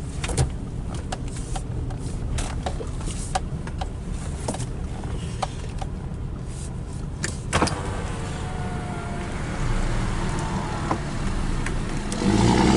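Car moving slowly, heard from inside the cabin: a steady low engine and road rumble with scattered light clicks and ticks. Near the end a louder, steady engine hum comes in.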